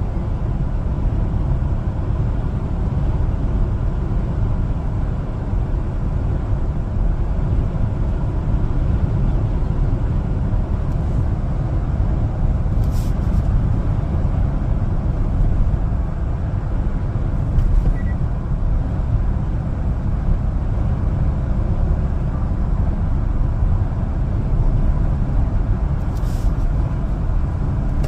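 Steady low rumble of a 1-ton LPG cargo truck driving on the road, engine and road noise blended, with two brief faint hisses, about 13 seconds in and near the end.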